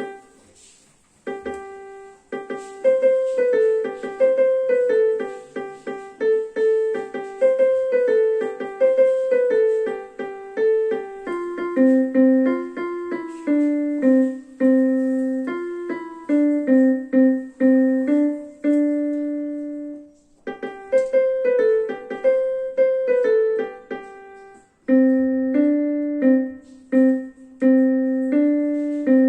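A keyboard with a piano sound playing a simple melody, mostly one note at a time with clear separate strikes. It breaks off briefly about twenty seconds in and again near twenty-five seconds, then carries on.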